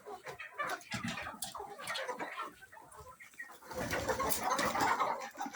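A flock of chickens clucking and calling in short, overlapping notes. About four seconds in, a louder, denser noisy stretch lasts a second and a half.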